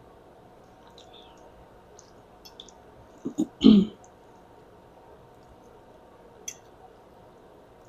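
Close-up eating sounds: faint wet mouth clicks while chewing spaghetti, with a louder short thump about three and a half seconds in.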